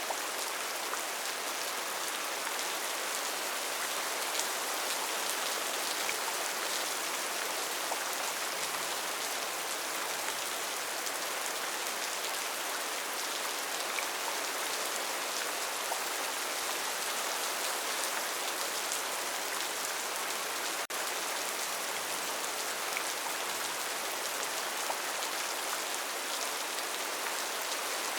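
Steady rainforest rain: a dense, even hiss of many drops falling on leaves and surfaces, with faint single drop ticks here and there. The level dips for a split second about three-quarters of the way through.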